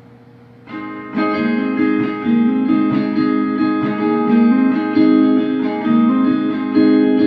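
Solo guitar starting the introduction of a country-folk song about a second in, chords picked and ringing with notes changing every fraction of a second.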